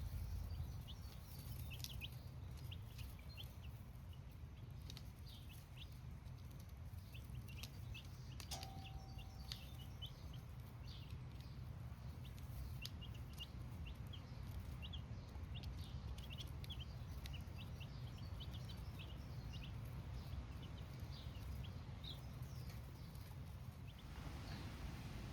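Baby chicks cheeping: many short, high peeps scattered throughout, over a steady low rumble.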